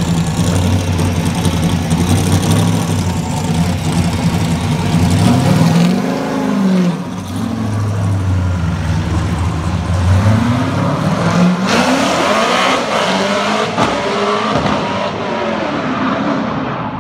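Ken Block's Hoonicorn, an all-wheel-drive 1965 Ford Mustang with a V8, running at a low, steady note, then revved up and down in several rising-and-falling sweeps as it pulls away. The sound fades near the end as the car moves off.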